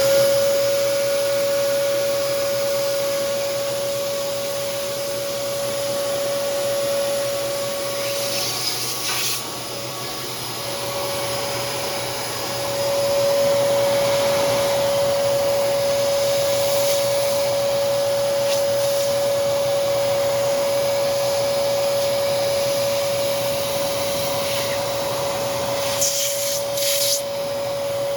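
Hoover Commercial PortaPower CH30000 vacuum cleaner running, its motor a steady high whine over rushing air. Around ten seconds in the sound drops and dulls for a couple of seconds, then comes back louder. There are brief scratchy bursts of air noise about nine seconds in and near the end.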